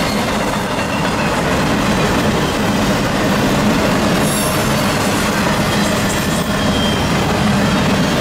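Freight train boxcars rolling past at close range: a steady, loud rumble of steel wheels on rail.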